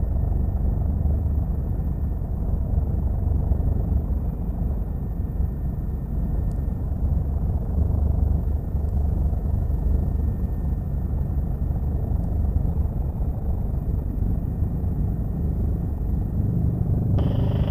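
Helicopter cabin noise: a steady, deep rumble of the rotors and engine heard from inside the aircraft in flight. A brief tone sounds near the end.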